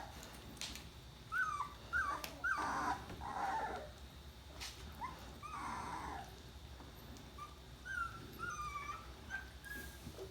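Young puppies, about two and a half weeks old, whimpering: a string of short high squeaks that slide down in pitch, with longer, rougher cries about three and six seconds in.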